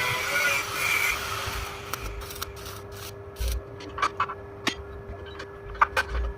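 Workshop work on metal: a scraping, rubbing noise for the first couple of seconds, then scattered sharp metallic clicks and knocks from tools and parts, over a steady hum.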